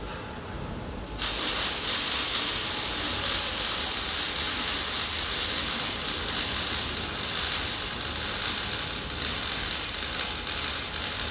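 A workshop tool starts abruptly about a second in and runs steadily with a harsh, high rasping hiss and a fine rattling texture.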